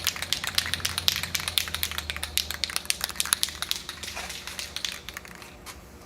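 Aerosol spray-paint can being shaken, its mixing ball rattling in rapid clicks to mix the colour coat before spraying. The rattling thins out and fades near the end.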